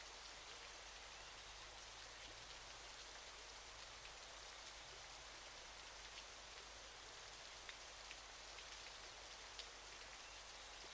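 Waterfall: a faint, steady hiss of falling water, with scattered small splashes and drips.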